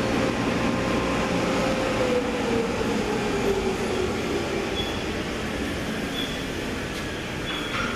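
Car wash machinery running with a steady rushing noise, and a faint tone that slides down in pitch about two to four seconds in.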